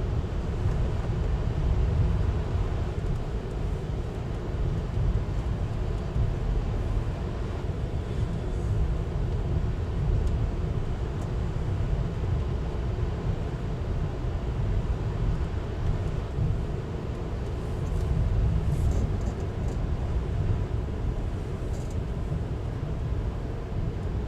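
Steady low rumble of a VIA Rail passenger train running, heard from inside the car.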